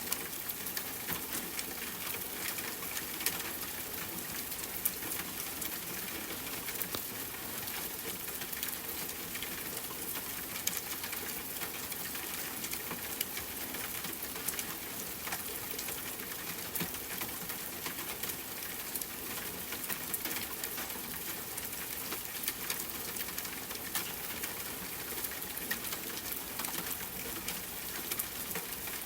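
Steady rainfall mixed with a crackling wood fire, the fire's small sharp pops and snaps scattered irregularly over the even hiss of the rain.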